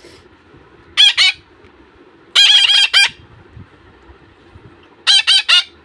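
Month-old parakeet chicks giving loud, rapidly pulsing food-begging calls while being hand-fed, in three short bursts: about a second in, around two and a half seconds in, and near the end.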